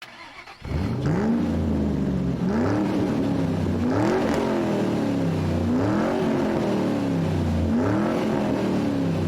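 Car engine revving repeatedly, with about five blips where the pitch climbs quickly and then sinks back toward idle.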